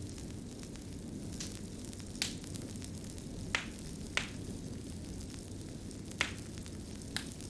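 Fire crackling: a steady low rumble and hiss with sharp, scattered pops, five or six of them, roughly one every second.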